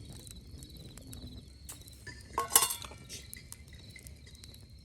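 Insects chirping steadily in a fast pulsing trill. About halfway through comes a short, loud clinking clatter with a ringing tone, the loudest sound.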